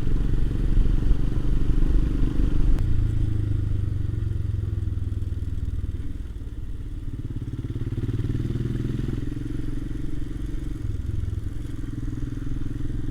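Royal Enfield Himalayan's single-cylinder engine running on the move with a steady exhaust beat, briefly dropping in level about six seconds in.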